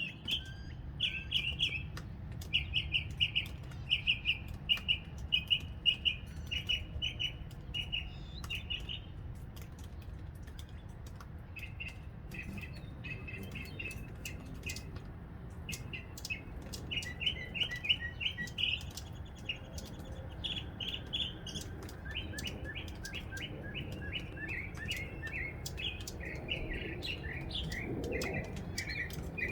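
Northern mockingbird singing: a run of quick, repeated chirpy notes, then after a short lull a long, varied series of phrases.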